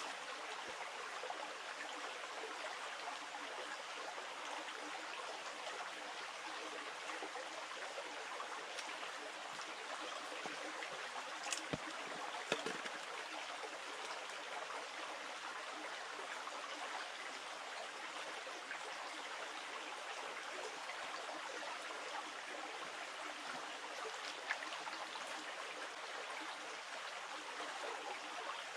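Small river flowing, a steady rush of water. A few light knocks about halfway through and one more near the end.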